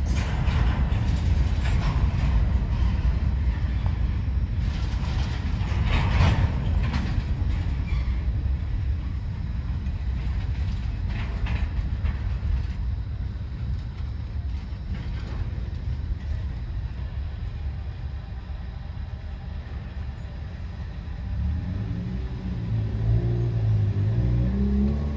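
Freight train cars rolling past: a steady low rumble with a few clanks, easing off as the end of the train goes by. Near the end a road vehicle's engine comes in.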